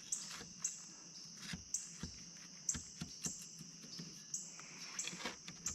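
A large knife sawing through a cheeseburger with toasted grilled-cheese-sandwich buns, giving irregular crunchy clicks. Insects call behind it in repeated high buzzy pulses, about one a second.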